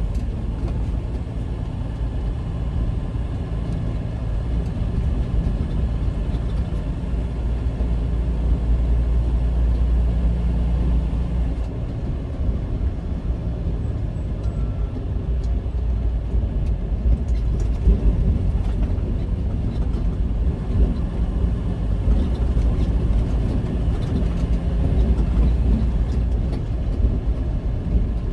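Semi truck's diesel engine running steadily with road noise, heard from inside the cab while driving; a continuous low rumble.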